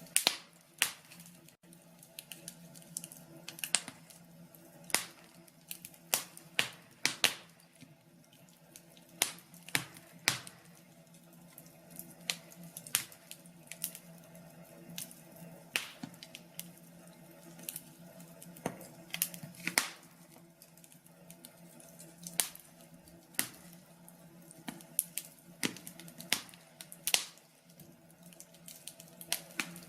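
Wood fire crackling in a fireplace, with irregular sharp pops and snaps of varying loudness over a faint steady low hum.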